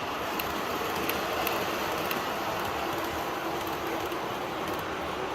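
MTH O-gauge R-40 Slant model subway train running between stations: steady subway-car running noise from its onboard sound system, mixed with the model's wheels on the track.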